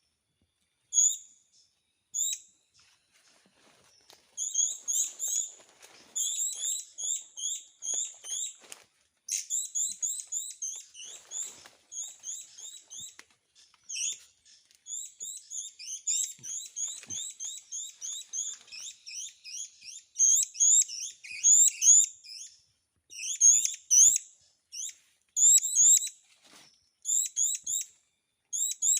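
Small bird chirping: short, high-pitched calls, two single ones near the start and then fast runs of chirps from about four seconds in, with a few faint knocks of handling underneath.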